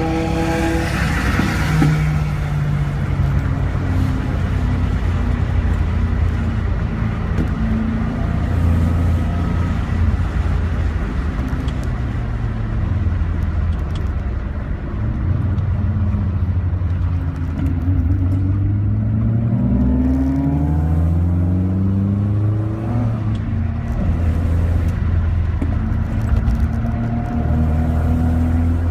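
Alfa Romeo Giulia's four-cylinder engine under hard track driving, heard from inside the car: revs fall as it slows for a corner about halfway through, then climb again under acceleration with a gear change, over wind and road noise.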